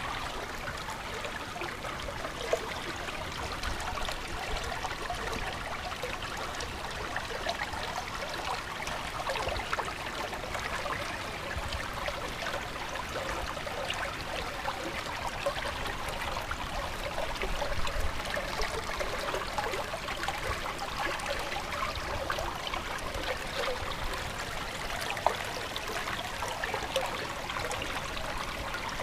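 Water running in a stream, a steady trickling and babbling of many small splashes, with a few brief louder ticks.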